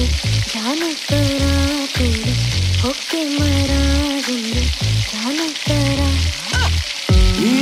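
Chopped vegetables sizzling in hot oil in a miniature kadai, a steady frying hiss, over background music with a repeating melody and a beat that gets louder near the end.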